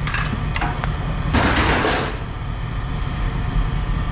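Pieces of scrap metal being handled and sorted, with a short rattling scrape of metal about a second in, over a steady low rumble.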